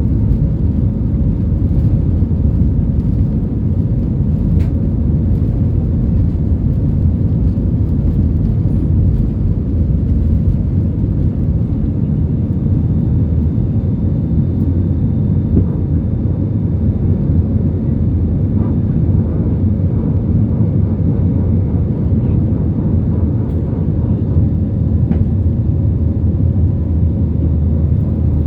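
Jet airliner engines on takeoff: a loud, steady, low rumble with a few faint steady tones above it.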